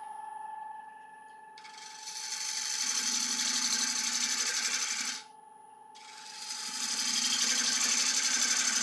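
A 3/8-inch bowl gouge cutting into spinning laburnum wood on a lathe, hollowing the inside of a bowl, in two cuts of about three to four seconds each with a short pause between. The lathe's steady whine runs underneath.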